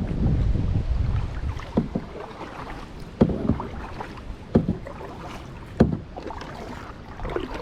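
Wind buffeting the microphone at first, then about four sharp knocks against a kayak hull, a second or more apart.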